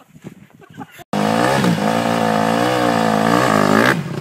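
Dirt bike engine running at high, steady revs, its pitch wavering slightly, then dropping away sharply near the end. It starts suddenly about a second in, after a few faint sounds.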